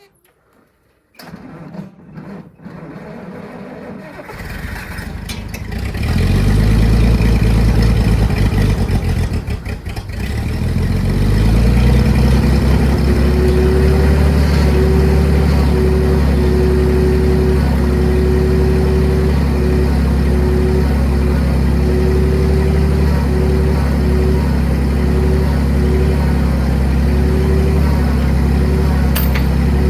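Clark forklift engine being started: it cranks unevenly for a few seconds, catches about six seconds in, falters briefly around ten seconds, then runs steadily with a faint whine on top.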